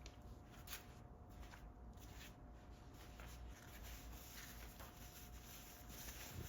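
Faint rustling and light clicks of hands turning a motorcycle's clutch cable fitting to unscrew the cable.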